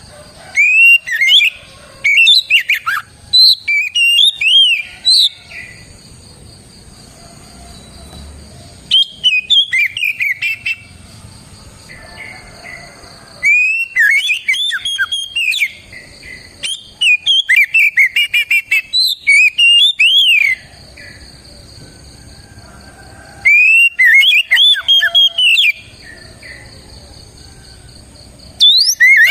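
Oriental magpie-robin (kacer) singing: bouts of a few seconds of loud, rapid whistled notes that sweep up and down, with pauses of a few seconds between bouts.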